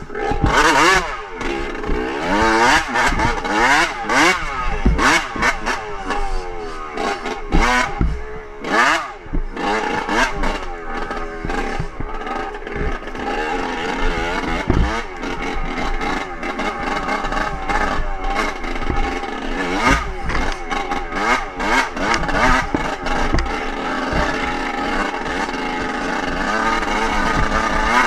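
Dirt bike engine being ridden hard, revving up and dropping back over and over through the gears, with frequent knocks and rattles from bumps.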